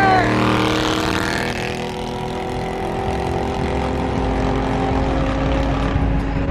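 Car engine running at steady revs while driving, a continuous drone over road noise, its pitch dipping slightly about five seconds in.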